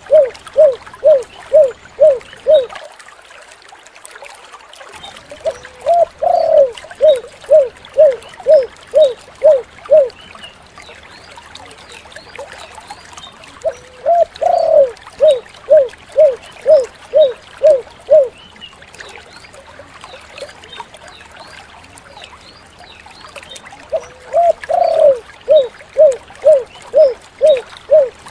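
Spotted dove (tekukur) cooing: bouts of eight to ten low coos at about two a second, each bout opening with a longer drawn note, repeated every eight to ten seconds over a steady hiss.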